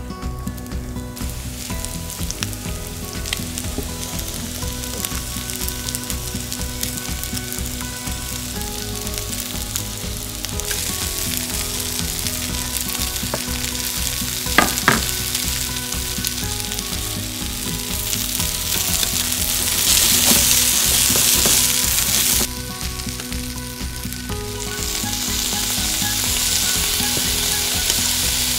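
Breaded chicken breast pieces, then green peppers, sizzling as they are stir-fried in oil in a frying pan. Two sharp knocks about halfway; the sizzle grows louder in the second half, breaks off abruptly, then returns.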